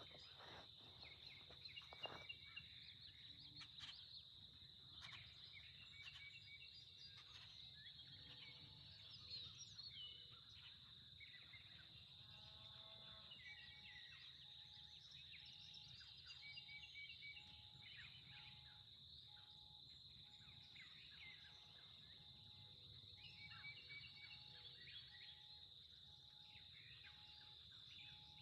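Faint outdoor birdsong: scattered chirps and short calls from several birds over a steady high-pitched hum. About halfway through, a single short note starts repeating about once a second.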